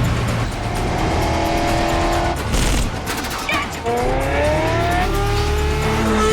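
Car-chase sound mix: car engines running hard, with a short tyre squeal, then an engine revving up with rising pitch from about four seconds in.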